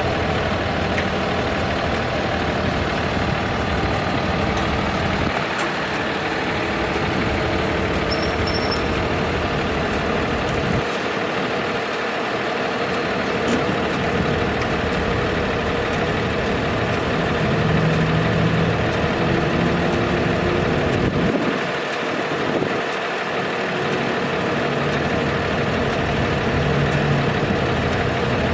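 Cummins ISB six-cylinder diesel of a Freightliner M2 dump truck idling steadily.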